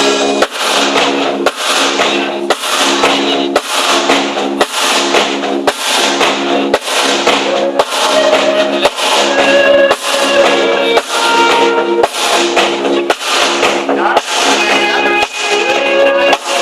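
Band playing a rhythmic song with drums and guitar, a steady beat about twice a second over held notes.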